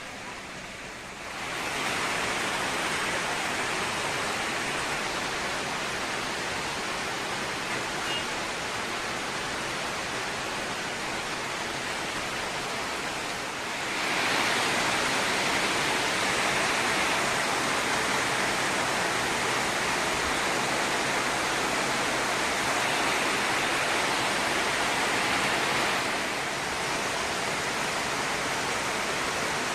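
Heavy rain falling in a steady hiss. It gets louder about a second in and again about halfway, then eases a little near the end.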